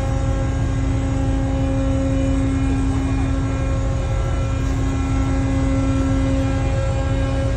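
Heavy machinery running steadily, with a deep rumble under a constant droning hum. The lower hum tone fades out near the end.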